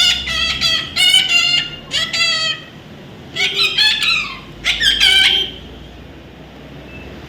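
A parrot squawking: a run of short, harsh, pitched calls, several bending up or down in pitch, over the first two and a half seconds, then another run about three and a half to five and a half seconds in, after which the calls stop.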